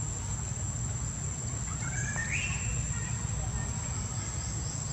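Outdoor ambience: a bird call rising in pitch about two seconds in, over a steady low rumble and a steady high-pitched whine.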